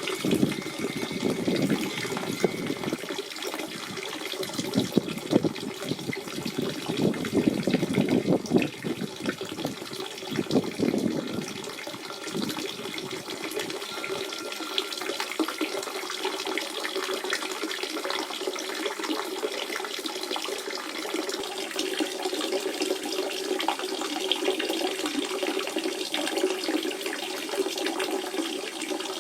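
Natural spring water running and gurgling. The bubbling is heavier and uneven for the first dozen seconds, then settles into a steadier flow.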